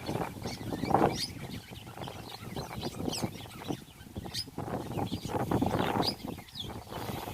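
Birds chirping in short, high calls scattered throughout, over a steady background noise.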